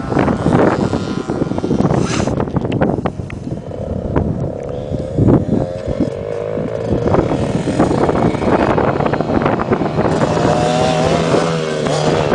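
Motocross dirt bike engines revving, their pitch rising and falling, with knocks and clatter in the first few seconds.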